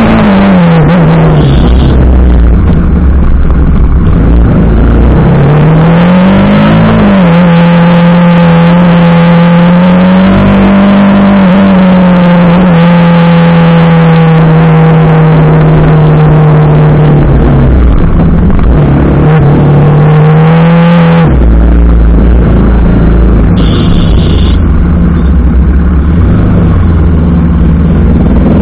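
TVS Apache RR 310's single-cylinder engine running under way, its note dropping just after the start, rising again about six seconds in, then holding fairly steady before shifting about two-thirds of the way through. Heavy wind rush on the microphone lies underneath.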